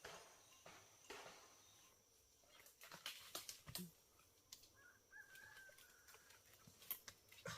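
Near silence with faint scattered clicks and taps, and a faint drawn-out animal call about five seconds in.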